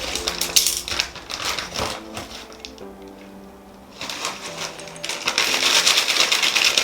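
Plastic snack packet crinkling and rustling as it is handled and torn open, busy for about the first two seconds and again for the last three, quieter in between. Faint background music with steady held notes underneath.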